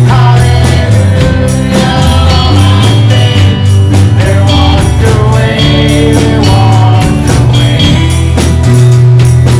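Live worship band music: singing over a strong bass line with a steady beat of jingling percussion.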